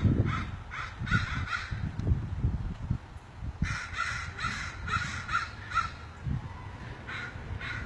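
Crows cawing in rapid runs of short harsh caws: about five at the start, a longer burst of about seven a few seconds in, then two more near the end, over a low rumble. This is territorial alarm cawing by crow parents at intruding crows near their fledglings.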